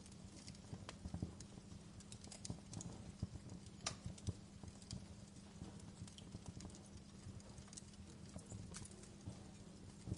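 Wood fire crackling in a fireplace: irregular pops and snaps over a low steady hum, with one sharper snap about four seconds in.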